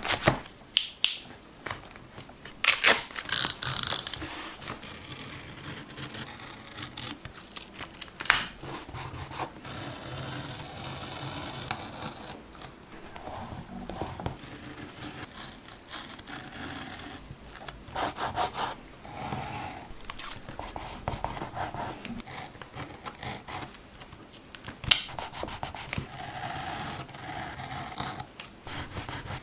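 Washi tape and paper being handled: irregular rustling, scraping and peeling, broken by sharp clicks, with a louder burst of noise about three seconds in.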